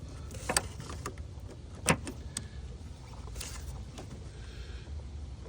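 Clicks and scrapes of a pick working a stuck plastic retaining clip out of an EVAP line connector: a few sharp clicks, the loudest about two seconds in, and a short scrape around three and a half seconds in, over a steady low hum.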